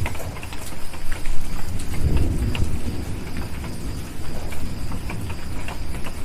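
Steady rain with a low rumble of distant thunder swelling about a second in and fading over the next two seconds. Scattered sharp crackles run through it.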